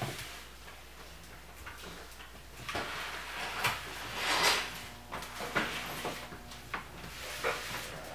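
Irregular knocks, clicks and scraping of parts and tools being handled, with a louder rustling scrape about four seconds in.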